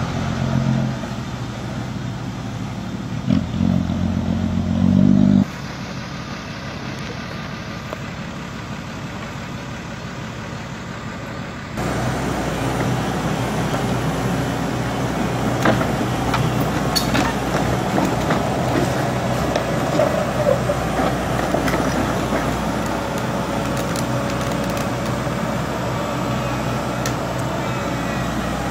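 Heavy diesel engine of a hydraulic excavator running as it is driven up onto a semi-trailer, with scattered sharp metal clanks. The sound changes abruptly twice: it drops to a quieter even rumble about five seconds in, then jumps back to a louder steady engine hum with clanks about twelve seconds in.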